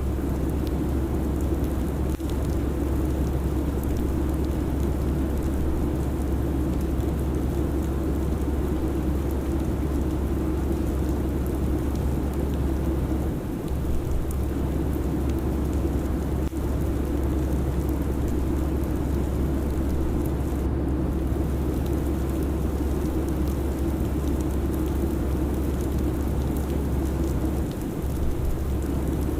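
Steady jet airliner cabin noise at cruise: a constant low rumble with a hum band above it, unbroken throughout.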